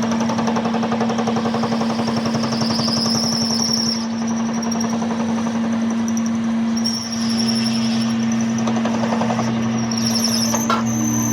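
Workshop machine running steadily with a constant hum and a rapid rattle, with a short knock near the end.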